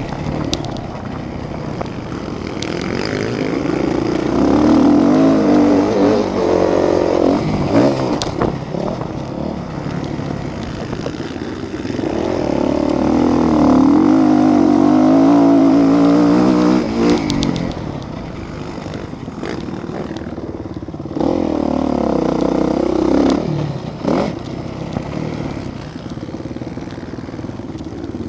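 Motocross motorcycles racing on the track, engines revving up and falling back as they accelerate and shift. The sound swells three times as bikes come close, about four seconds in, in the middle and again near the end.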